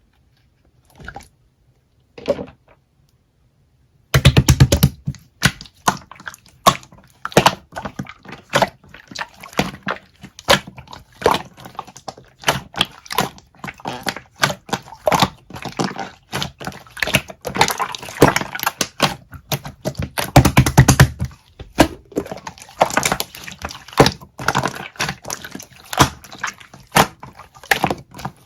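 Slime being squeezed and pressed by hand, giving a dense, irregular run of clicks and pops, with louder squishy pushes about four seconds in and again near twenty seconds.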